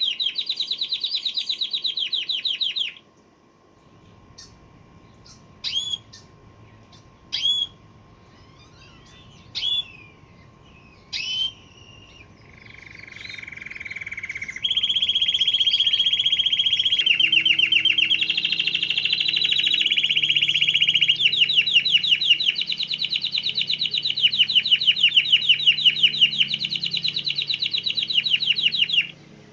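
Domestic canary singing: fast trills of rapidly repeated notes stop about three seconds in, a handful of single short chirps follow, then long rolling trills resume and shift pitch several times until near the end.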